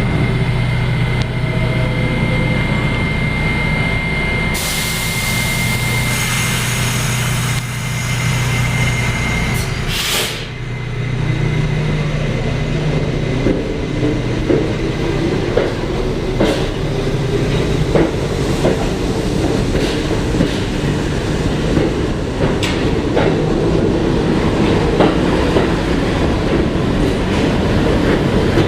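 R68 subway train standing with a steady low hum and a thin high tone, two hisses of air about five and ten seconds in, then pulling out of the station. As it pulls away a rising motor tone builds, with wheels clacking rhythmically over the rail joints as it picks up speed.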